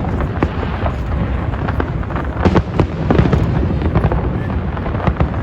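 Fireworks display: a continuous low rumble of shell bursts with many sharp bangs and crackles, densest about halfway through.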